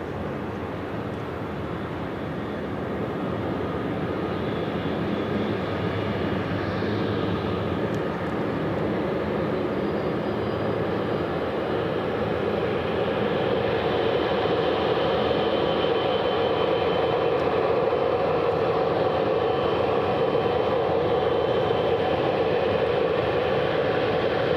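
Jet airliner engines running steadily, a dense rushing noise with faint steady tones that slowly grows louder over the first half and then holds.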